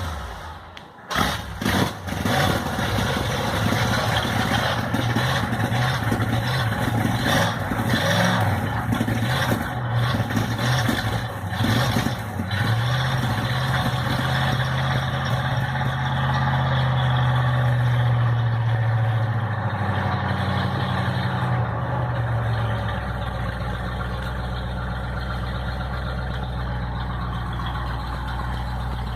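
A 1965 Ford Thunderbird's 390 V8 running through new Thrush Turbo mufflers. A few uneven blips come in the first two seconds, then it holds a steady fast idle that settles to a lower, even idle about 23 seconds in.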